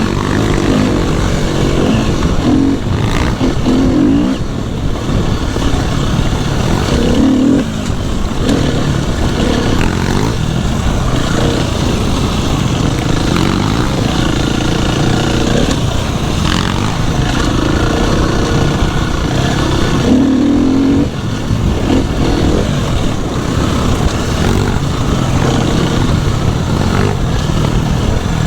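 Dirt bike engine running and being ridden, revving up and down over and over.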